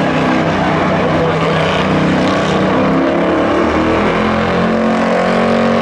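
Several pickup truck engines running hard together in a race, their pitches overlapping and shifting, with one winding up toward the end.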